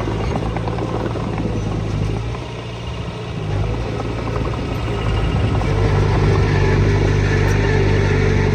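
Diesel engine of heavy construction machinery running steadily. It eases off about two and a half seconds in, then builds back up under load.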